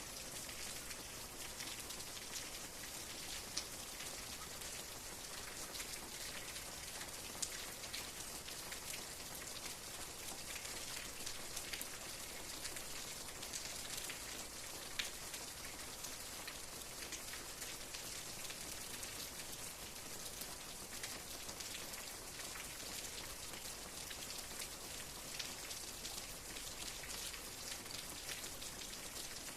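Steady rain falling, a dense patter of raindrops with now and then a sharper single drop standing out.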